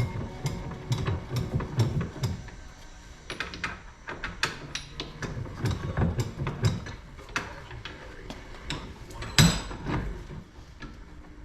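Metal tools and parts clicking and knocking irregularly during hand work on a dirt-bike frame's bearing and linkage parts, with one louder knock near the end.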